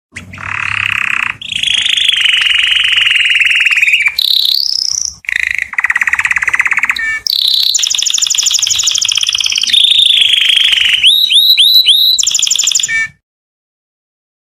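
Male domestic canary singing a song of fast trills, each held a second or two at a different pitch, ending in a quick series of rising whistled notes before it cuts off suddenly.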